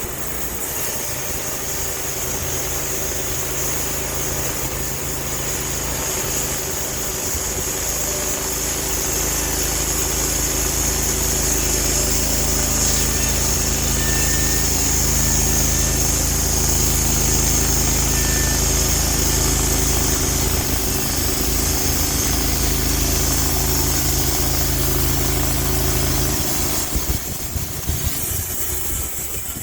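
Sawmill engine running steadily under load while the saw cuts through a log, with a steady high whine over the engine note. The engine sound drops away near the end.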